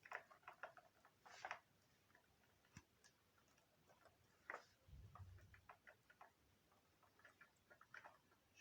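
Faint, irregular small clicks and taps of hands handling wires and parts during the vacuum cleaner repair, with a soft low thump about five seconds in.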